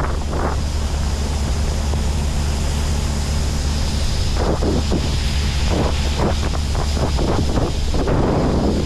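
A heavy diesel farm machine's engine running steadily with a low hum, while gusts of wind buffet the microphone from about four seconds in.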